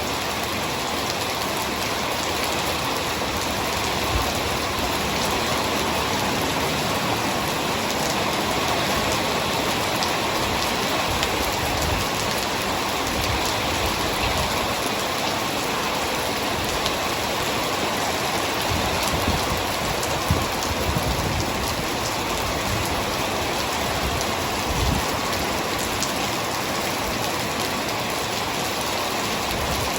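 Heavy rain falling steadily, a dense even hiss of drops, with a few brief low thumps of drops striking nearby.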